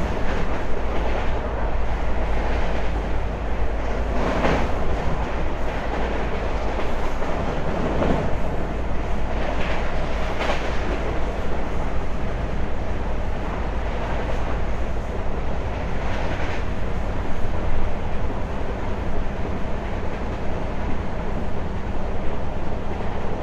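Indian Railways passenger coach running along the track, heard from its open doorway: a steady rumble of wheels on rail with a few louder clatters now and then.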